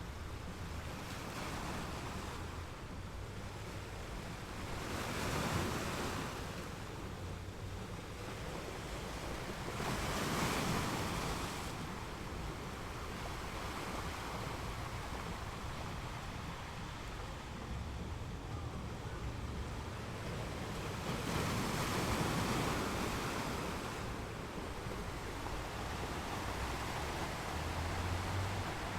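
Ocean waves breaking and washing onto a beach, swelling up in surges about five, ten and twenty-two seconds in. A low wind rumble on the microphone rises near the end.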